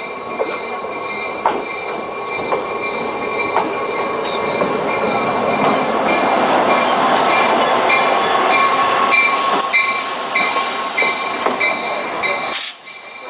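Passenger train rolling on the rails, with a steady high-pitched wheel squeal over the rumble and faint regular clicks from the rail joints. It grows louder through the middle, then drops off sharply near the end.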